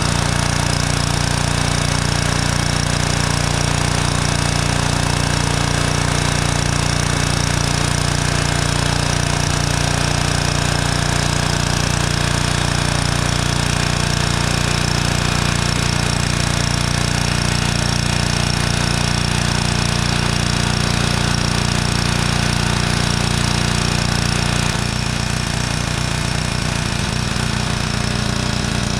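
Pressure washer running steadily while spraying. About 25 seconds in, its sound drops slightly and its low note changes.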